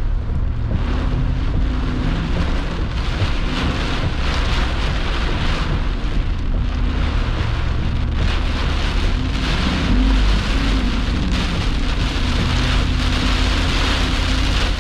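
Heavy rain beating on a vehicle, heard from inside the cab, over a steady low rumble of wind and road noise, in the rain shaft wrapped around a tornado's circulation.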